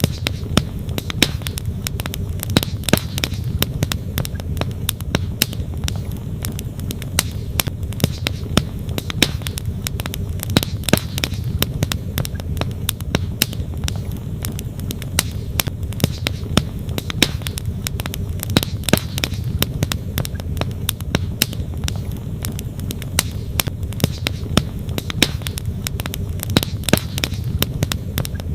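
Wood campfire crackling, with frequent sharp pops and snaps, over the steady rush of a flowing stream.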